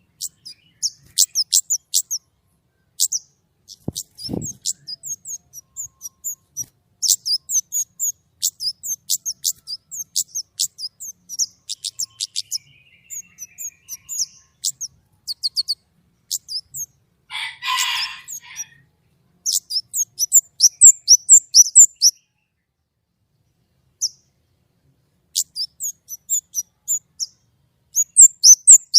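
Orange-headed thrush (kemade) singing in rapid runs of short, sharp, high notes, the 'nembak' burst style of a bird in full song, with short pauses between runs. There is one harsher, rasping call just past the middle and a single low thump about four seconds in.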